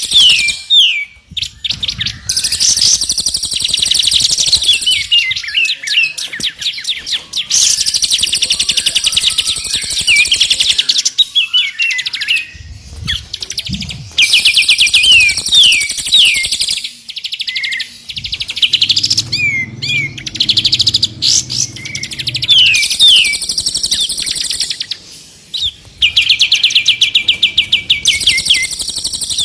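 Songbirds singing loud, repeated phrases: fast rattling trills alternate with short downward-slurred whistled notes, broken by brief pauses. It is a combined 'masteran' song track of the kind played to train and stimulate caged songbirds. A faint low hum comes in about two-thirds of the way through.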